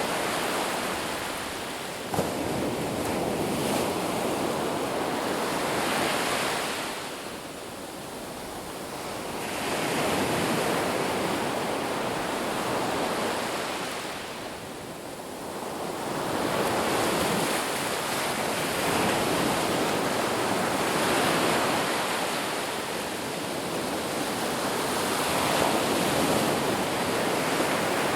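Sea waves washing in surf: a steady rushing noise that swells and fades in slow surges every several seconds.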